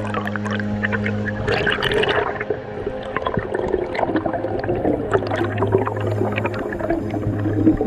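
Water rushing and bubbling as heard by an underwater camera, with crackling clicks throughout and a louder rush about a second and a half in. A steady low hum of background music drops out early and comes back about halfway.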